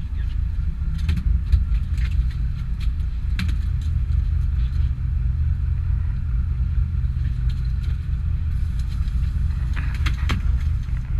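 Fishing charter boat's engine running steadily with a low hum, with scattered light clicks and rattles of gear over it.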